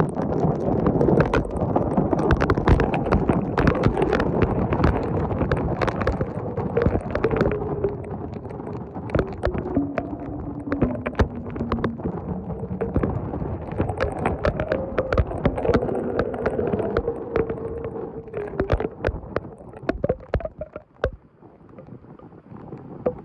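Heavy rain with wind buffeting the microphone, scattered with many sharp taps close to it. A faint wavering tone runs underneath and dips lower around the middle. The noise eases about twenty seconds in.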